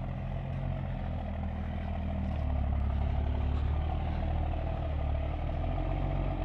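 Heavy logging truck's diesel engine running steadily, getting louder and heavier about two and a half seconds in, then easing back near the end.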